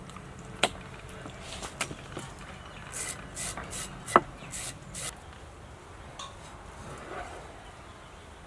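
Food preparation with a knife on a wooden board: a few sharp knocks, the loudest about four seconds in, and between them a quick run of about five short rasping scrapes.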